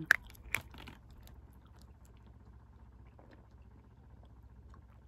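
Close-up chewing of a sandwich: a few sharp, wet mouth clicks in the first second, then only faint chewing over low background noise.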